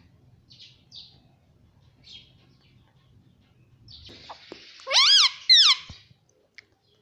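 Pet ringneck parrot making soft chatter, then two loud, high calls about five seconds in, each rising and then falling in pitch like its "Mami" calls.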